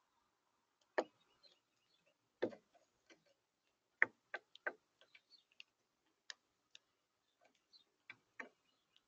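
Faint, irregular sharp taps and clicks, about a dozen, with the loudest about 1, 2.5 and 4 seconds in: birds pecking at seed and shifting about on a bird feeder.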